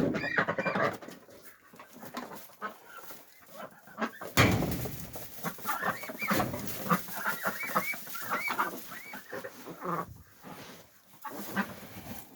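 A flock of domestic ducks calling in short, repeated quacks while feeding, in bunches with quieter gaps, with a sudden loud noisy burst about four seconds in.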